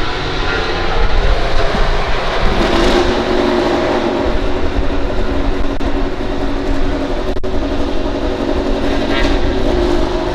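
MotoGP race bikes' 1000 cc four-cylinder engines running loud and continuous at high revs, the pitch stepping up about two and a half seconds in.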